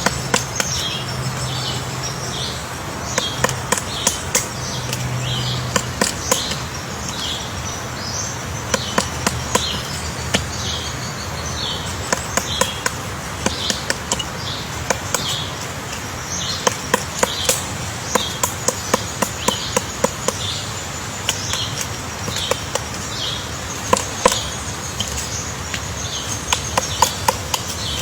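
Woodpecker chiselling at wood with its bill to dig out a nest hole: sharp taps in short, irregular clusters, while a bird chirps briefly and high about twice a second.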